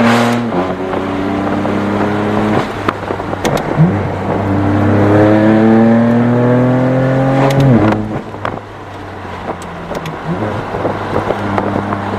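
Straight-piped BMW M4 F82's twin-turbo inline-six exhaust under way: a gear change about half a second in, a few sharp cracks around three seconds in, then a rising pull through a gear that ends in an upshift about eight seconds in, followed by steadier, quieter running.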